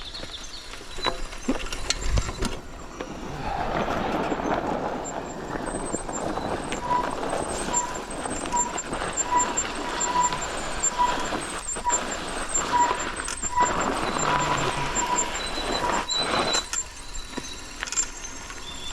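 Mountain bike being ridden over a woodland track, tyre and frame rattle with wind on a GoPro microphone, after a few knocks in the first couple of seconds. A short high pip repeats more than once a second through the ride, and the riding noise dies away near the end.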